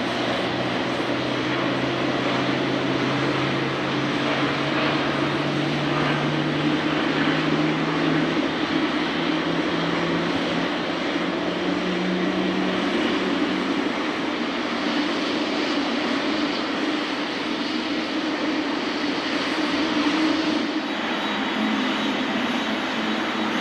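Jet engines of a Boeing 777-300ER running on the ground: a steady, loud drone, with a low tone that glides upward in pitch over the first dozen seconds and then fades out.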